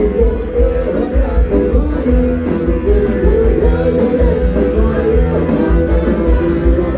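Live band music played loud from a Thai rot hae sound truck, with a heavy bass beat under a moving melody line.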